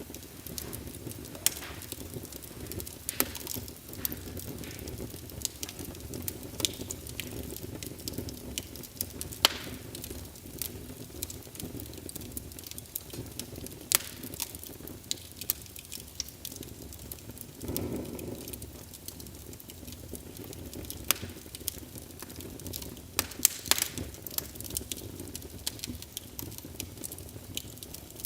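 Wood fire burning in a fireplace: irregular sharp crackles and pops over a steady low rumble of flame, with a brief swell in the rumble about two-thirds of the way through.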